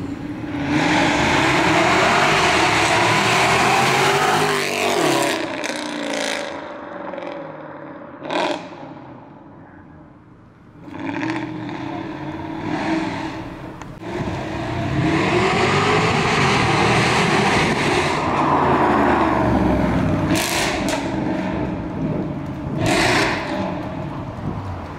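Performance cars accelerating away one after another, their engines revving with the pitch rising and falling, loudest in two long passes with a quieter gap between. A few short sharp noises stand out near the middle and toward the end.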